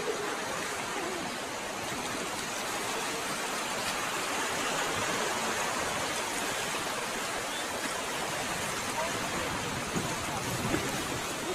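Steady rushing noise of water with no clear surges, heard at a distance.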